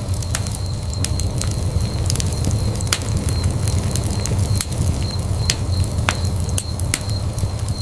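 Fireplace fire burning with a steady low rumble and irregular sharp crackles and pops, about one or two a second.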